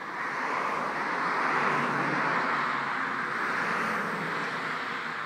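A passing vehicle: a steady rushing noise that swells over the first couple of seconds and then slowly fades.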